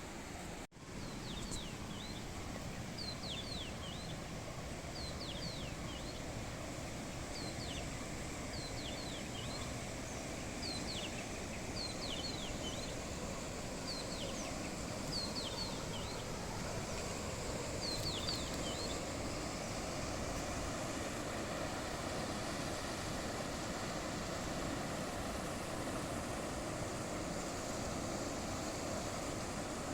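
A bird calling outdoors: short, high, downward-slurred chirps in little groups of two to four, repeated for the first twenty seconds or so, then stopping. Under it runs a steady rushing background, like wind through trees or running water.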